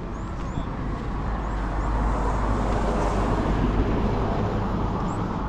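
A road vehicle passing close by, its engine and tyre noise swelling to a peak about halfway through and then easing off, over steady traffic rumble.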